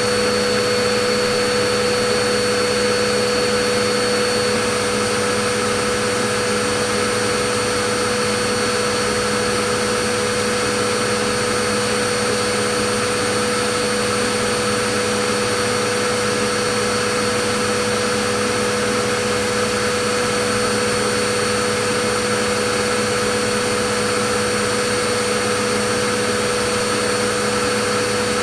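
Vacuum cleaner motor running steadily: a constant rushing hiss of air with a steady whine on top, unchanging throughout.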